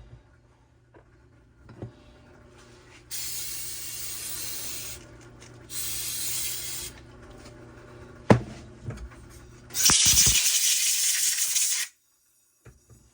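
Three blasts of compressed air from an air-hose blow gun, blowing out a weedeater carburetor. The last blast is the longest and loudest. A low steady hum underneath stops about ten seconds in.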